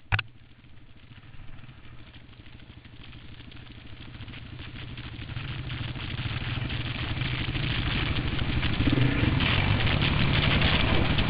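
Dirt bike engine running at low trail speed, growing steadily louder across the clip as the bike picks up, with a sharp knock right at the start.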